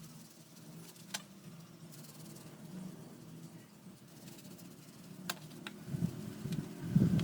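Handling noises from an electric fan being cleaned: a few faint clicks over a low steady hum, then louder, irregular rubbing and bumping from about six seconds in.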